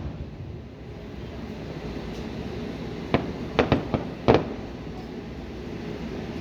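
Fireworks bursting: a quick cluster of about five sharp bangs about halfway through, over a steady low rumble.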